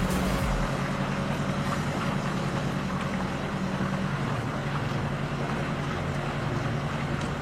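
A heavy truck's engine running steadily.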